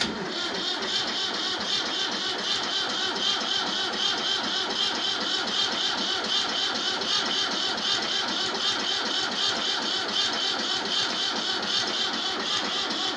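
Ford 3000 tractor's starter cranking its cold three-cylinder engine over in one long, steady turn of about thirteen seconds without it catching. It starts suddenly and cuts off at the end: a failed cold start.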